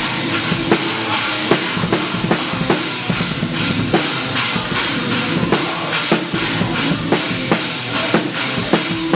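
Heavy band playing live with the drum kit prominent: kick drum, regular sharp snare strikes and steadily washing cymbals.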